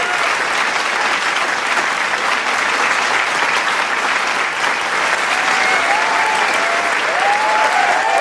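Large crowd applauding, a dense steady clapping, with cheering voices coming in over it in the last few seconds.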